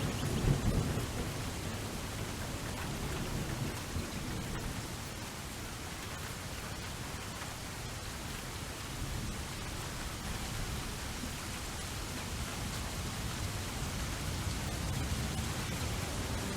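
Steady rain hiss, with a low rumble of thunder dying away in the first second or so.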